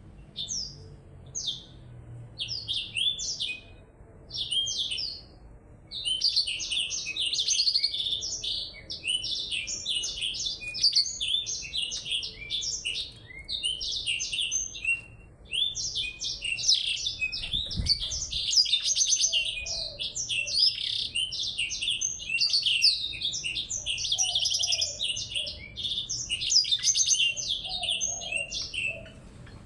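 Small songbirds singing a fast, busy song of chirps and trills. A few short phrases come first, then the song runs on almost without a break from about six seconds in.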